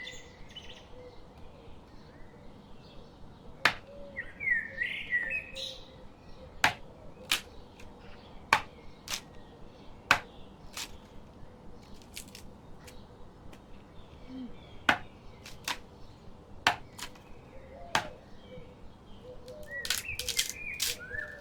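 Knife chopping on a cutting board: single sharp knocks at an uneven pace, roughly one every half second to second. Birds chirp twice, about four seconds in and again near the end.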